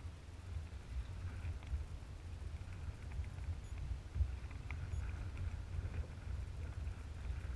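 Wind buffeting the microphone in a low, fluctuating rumble, over faint splashes and drips of water from kayak paddling.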